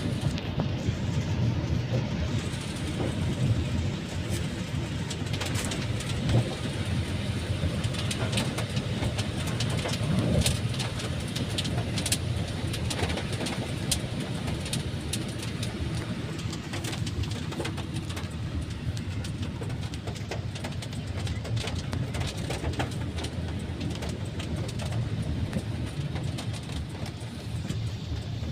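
Car cabin noise while driving in the rain: a steady low road and engine rumble, with scattered light taps of raindrops on the car, thickest in the middle stretch.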